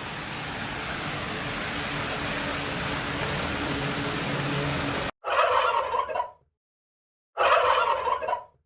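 A steady rushing noise that cuts off suddenly about five seconds in, followed by two turkey gobbles about two seconds apart, each lasting roughly a second.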